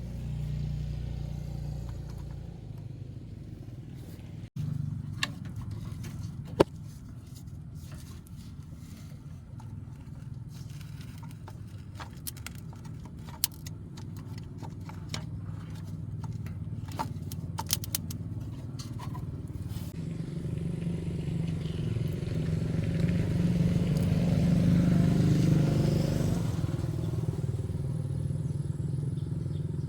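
A 30-year-old car's engine running with a steady low rumble and scattered light clicks. It grows louder and fuller about twenty seconds in, then settles back.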